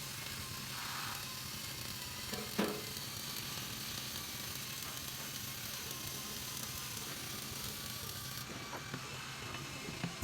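Steady crackling hiss of a welding arc, with a single sharp knock about two and a half seconds in.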